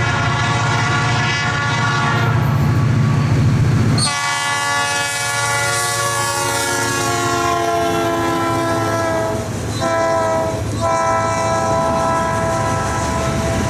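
Locomotive air horn sounding a long chord as the train passes, with the heavy rumble of the locomotive up to the pass about four seconds in. After the pass the horn's pitch slides gradually lower, and the horn breaks briefly twice near the end.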